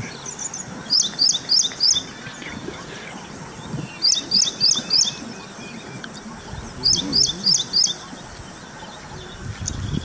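A bird calling in three bursts of four quick, high chirps, each burst about a second long and a few seconds apart.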